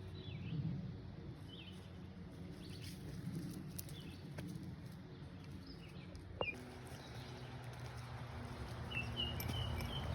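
Birds chirping now and then, with a quick run of short chirps near the end, over a steady low outdoor rumble.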